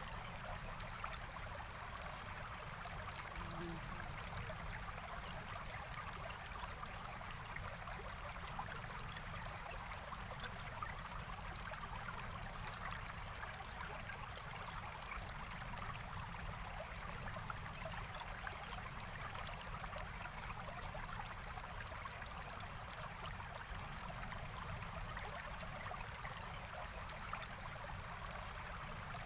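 Forest stream flowing and babbling as a steady, even rush of water.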